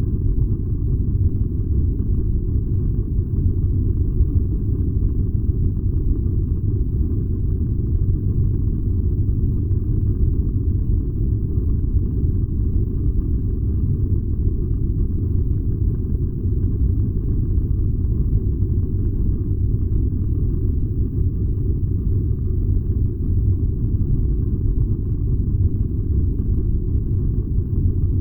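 Furnace burning with a steady, deep rumble.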